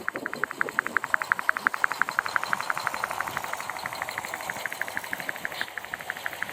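Stirling-engine-driven G-scale model Shay geared locomotive running, its mechanism giving a rapid, even clicking of about a dozen clicks a second.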